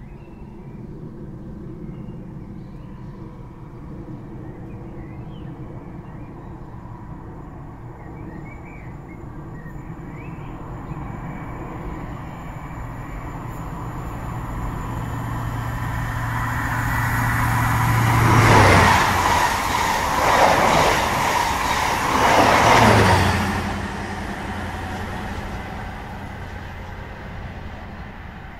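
Stadler Class 755 FLIRT bi-mode train passing: a low engine hum and rail noise build over several seconds, peak in three loud surges about two seconds apart, then die away.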